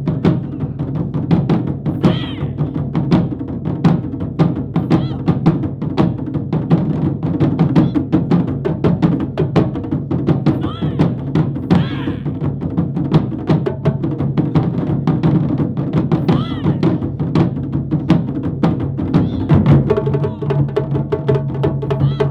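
Japanese taiko drum ensemble playing, with dense, rapid drum strikes. Near the end a steady pitched tone joins the drumming.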